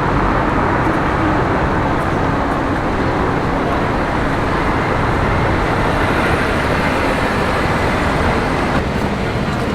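Steady road traffic noise, an even wash of tyre and engine sound with no single distinct engine note standing out.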